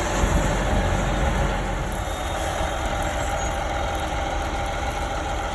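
Engine of farm machinery running steadily, a little louder for the first couple of seconds.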